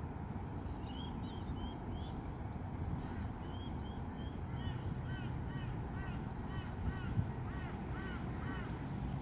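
A flock of gulls calling: many short harsh calls overlapping, starting about a second in and growing denser in the second half.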